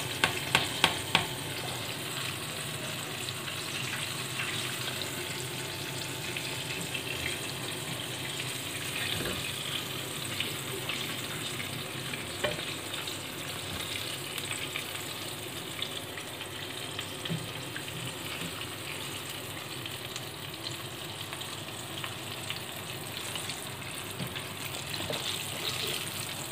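Flour-coated chicken wings frying in oil in a pan: a steady sizzle, with a few light clicks in the first second or so.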